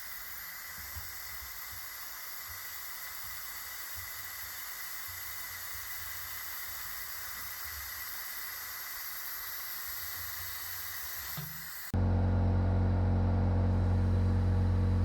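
A steady hiss for about twelve seconds, then suddenly a much louder steady mechanical hum.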